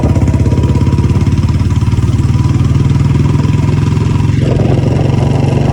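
Motorcycle engine running with a fast, even exhaust beat, its tone brightening slightly about four seconds in.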